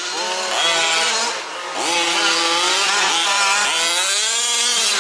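Small two-stroke petrol engines of several 1/5-scale RC off-road trucks racing, their pitch rising and falling as they rev up and ease off, with more than one engine heard at once.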